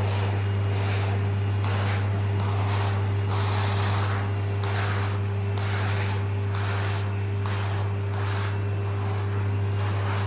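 Vacuum cleaner running with a steady hum while its head brush is rubbed back and forth over a cat's fur, a swish a little more than once a second.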